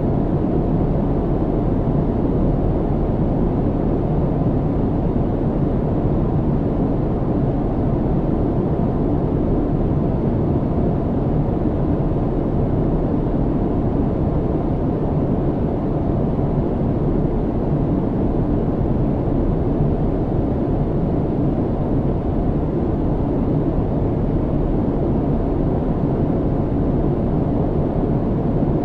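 Steady low rumble of an airliner's engines and airflow heard inside the cabin in flight, an even noise with most of its weight in the low range and no changes.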